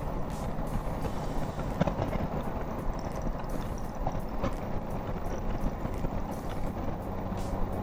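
Steady road noise from a motorcycle under way, engine and tyre and wind noise together, with a few faint ticks and a low steady hum coming in near the end.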